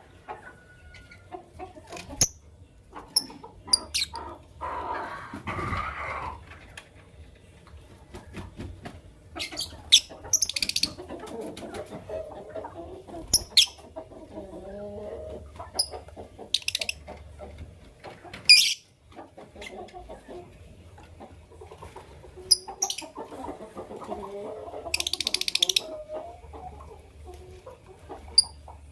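Lovebirds (Fischer's and masked) giving short, shrill chirps at irregular intervals. Lower, wavering clucking calls from other birds sound in between.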